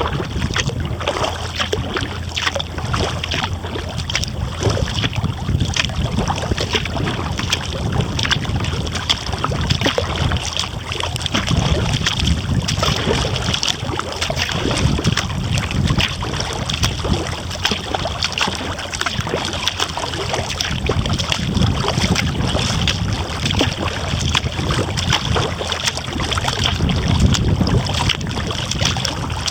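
Kayak paddling: water splashing and dripping from the paddle in many small clicks, with a low, uneven rumble of wind on the microphone.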